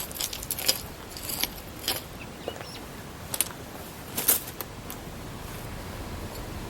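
About five sharp, separate clinks of hard objects over the first four and a half seconds, followed by a steady faint hiss.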